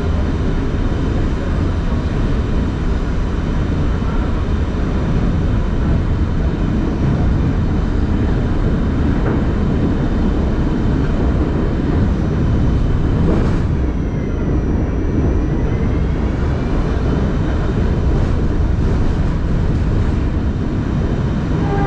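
Staten Island Railway train running along the line, heard from on board: a steady, loud rumble of wheels and running gear with several steady tones above it. A little over halfway through, one tone dips in pitch and rises again.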